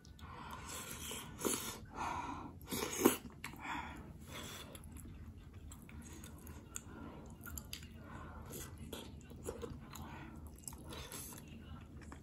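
A person eating soft tofu stew close to the microphone: chewing, with two sharp clicks about one and a half and three seconds in, the second the loudest.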